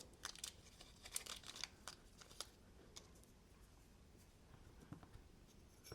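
Near silence with a few faint, light clicks and ticks of small knife parts such as pivot washers being handled, clustered in the first couple of seconds and again near the end.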